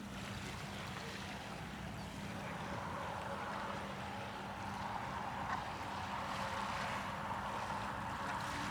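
Steady outdoor ambience: an even rushing noise with a faint, constant low hum underneath.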